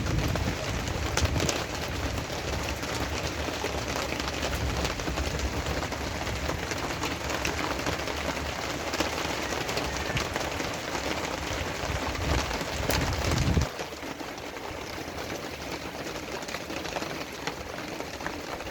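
Heavy rain falling, a steady hiss dotted with fine drop clicks. A deep low rumble runs beneath it and stops abruptly about three-quarters of the way through, leaving the rain alone.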